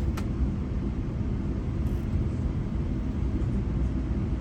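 Steady low rumble of a GO commuter train under way, heard from on board, with one short click just after the start.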